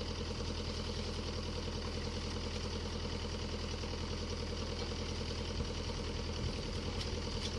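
Mini excavator's diesel engine idling steadily.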